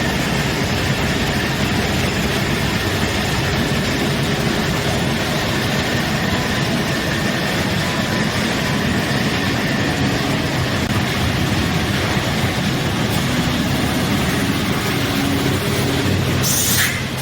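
HOMAG Optimat BOF 311 CNC machining center running, a steady mechanical noise with a low hum and a faint high whine. Near the end there is a short hiss of compressed air.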